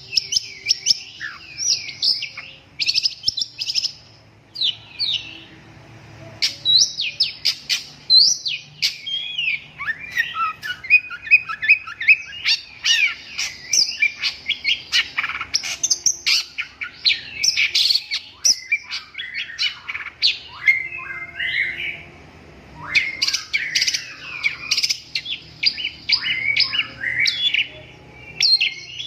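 Long-tailed shrike (cendet) singing a rapid, near-continuous jumble of short chirps and quick down-slurred whistles. There are brief lulls about four seconds in and again a little past twenty seconds.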